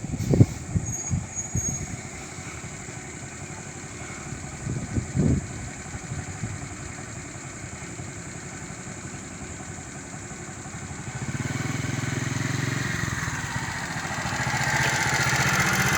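Motor vehicle engine idling, with a few short thumps in the first six seconds. The engine grows louder about eleven seconds in and again near the end.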